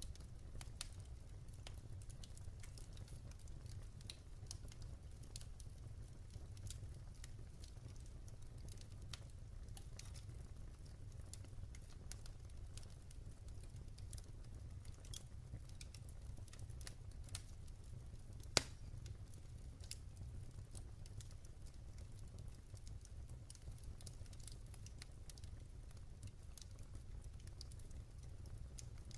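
Wood fire in a fireplace burning with frequent small irregular crackles over a low steady rumble, and one sharper, louder pop about two-thirds of the way through.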